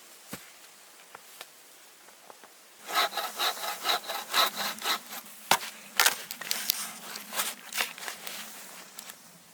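Hand saw cutting through wood in quick back-and-forth strokes, starting about three seconds in and stopping near the end.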